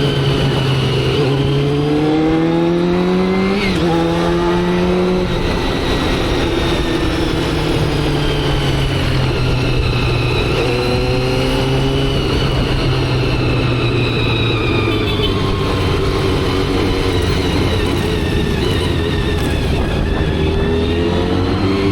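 Motorcycle engine under way, climbing in pitch as it accelerates. The pitch drops briefly about three and a half seconds in, as at a gear change, then climbs again; there are further climbs about ten seconds in and near the end, over a steady rush of wind and road noise.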